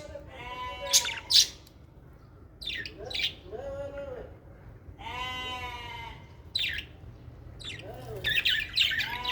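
Small aviary parrots calling: short sharp shrieks mixed with longer harsh squawks that rise and fall in pitch, one held for about a second near the middle.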